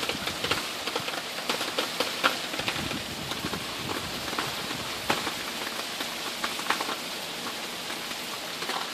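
Steady hurricane rain, with many sharp drops and splashes close by.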